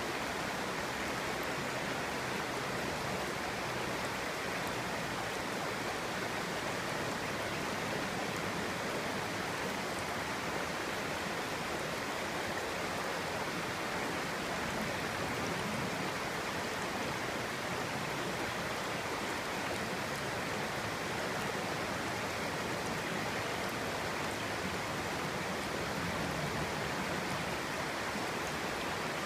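Clear stream flowing over stones, a steady even rush of babbling water.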